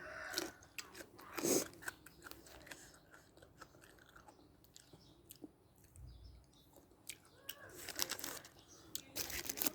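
A person chewing and crunching food close to the microphone: irregular crisp crunches and mouth sounds, busiest about a second and a half in and again near the end.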